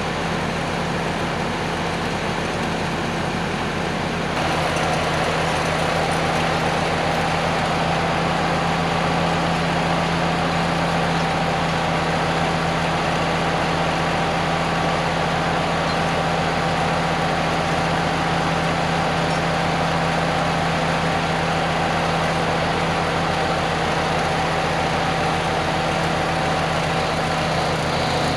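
An engine running steadily at constant speed, stepping up slightly in level and pitch content about four seconds in and then holding steady.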